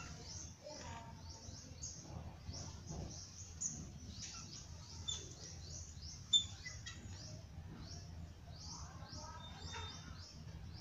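Small birds chirping without pause, many short high chirps a second, over a low steady hum, with one sharp click about six seconds in.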